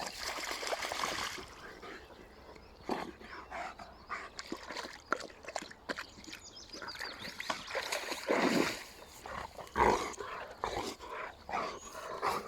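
East European Shepherd dog making short, irregular sounds amid scattered rustles and knocks, with two louder bursts about eight and a half and ten seconds in.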